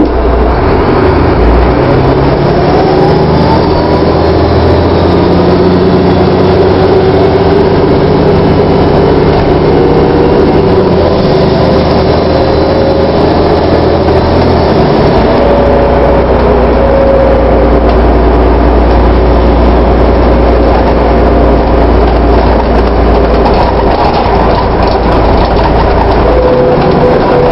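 VDL DB250 double-decker bus with Wright Pulsar Gemini body, its diesel engine and drivetrain running under way. A whine wavers and glides up and down in pitch, and the engine note shifts about a second in and again around halfway. The bus sounds stranger than usual for its type.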